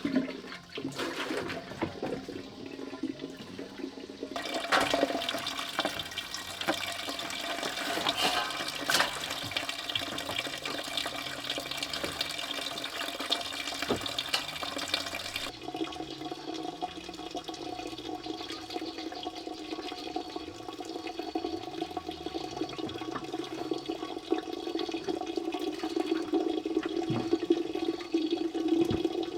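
Running water, a steady rushing and splashing. It turns brighter about four seconds in and settles to a duller, steadier rush about halfway through.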